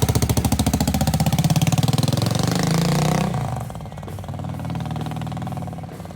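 Motorcycle engine running with a rapid, even beat, then turning clearly quieter about three seconds in.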